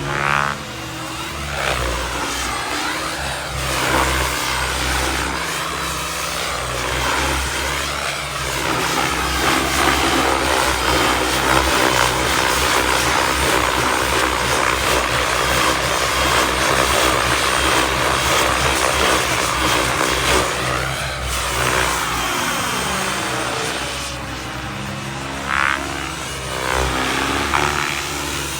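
Radio-controlled turbine helicopter with a Wren 45 kerosene turbine flying 3D manoeuvres: turbine whine and rotor blade chop, its pitch sweeping up and down as it swoops past. It is loudest in the middle stretch of the flight.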